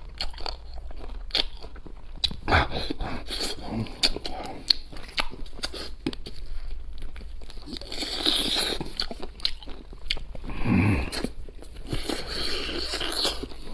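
Close-up chewing and biting on charcoal-roasted chicken cartilage: a run of short, sharp crunches and crackles at an uneven pace.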